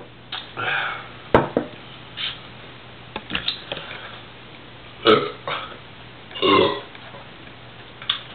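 A man burping several times, short throaty belches about half a second, five seconds and six and a half seconds in, with a few sharp clicks in between.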